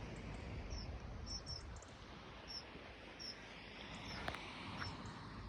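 Short, high call notes from a small bird, repeated irregularly about once a second, over faint outdoor background noise.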